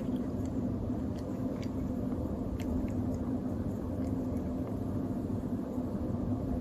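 A steady low hum and rumble, with a few faint clicks.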